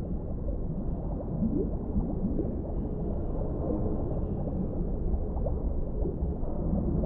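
Underwater ambience: a steady, muffled low rumble with occasional short bubbling gurgles rising through it.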